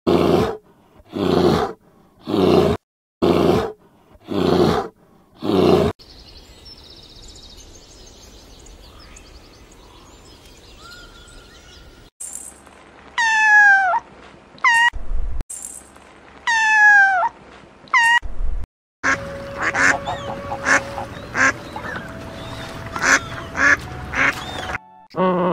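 A run of different animal calls: six loud calls evenly spaced about a second apart, a quieter stretch, then four sweeping calls that fall and rise in pitch. Near the end, domestic geese honk over one another in short, quick calls.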